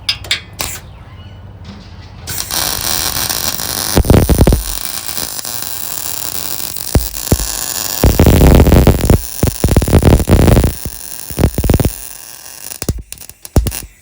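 A handheld power tool working on steel: a steady harsh hiss that starts about two seconds in, with several loud surges in the middle, dying away shortly before the end.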